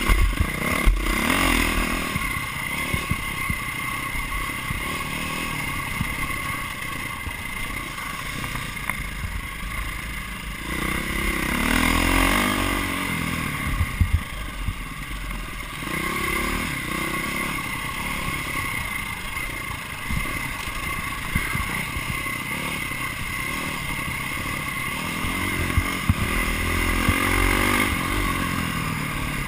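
Dirt bike engine revving up and falling back again and again as the bike is ridden hard around a motocross track, picked up close by a camera mounted on the bike.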